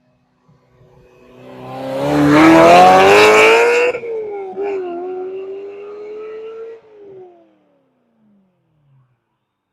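Ferrari 348's V8 engine accelerating hard, rising in pitch to a loud peak, with a sudden drop about four seconds in as it changes gear. It then pulls on, rising again in the next gear, before the note falls and fades away as the car moves off.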